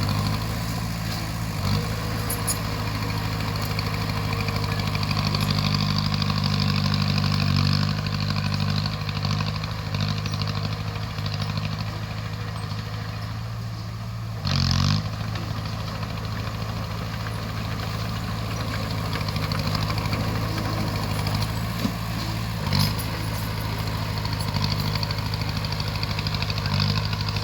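Heavy diesel engine of a crawler bulldozer running steadily, working a little harder for a few seconds, with a short metallic clank about halfway through.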